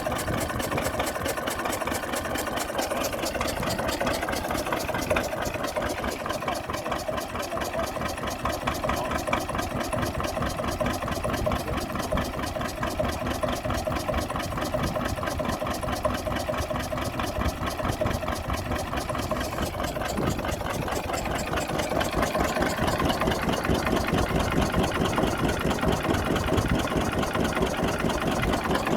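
Deutz stationary diesel engine running steadily with a rapid, even firing beat, growing a little louder in the last several seconds.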